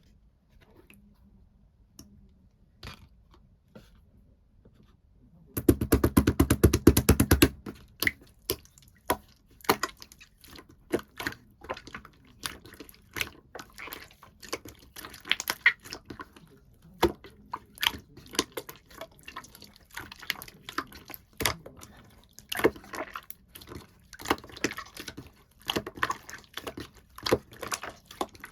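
Clear slime being squeezed and worked by hand, making sticky clicks and pops. A dense burst of rapid crackling comes about five seconds in, then scattered, irregular pops follow.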